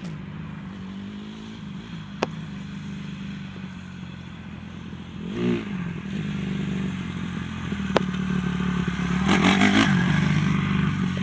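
Honda CRF150R dirt bike's single-cylinder four-stroke engine running, with a rise and fall in revs about five seconds in and louder running near the end, plus a few sharp clicks.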